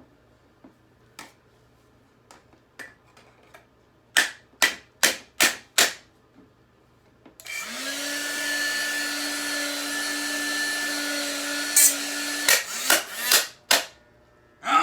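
A hand-held hair dryer runs for about five seconds with a steady hum and a rush of air, starting about seven seconds in and cutting off sharply. Before it starts, a quick run of five loud sharp clicks; after it stops, four more.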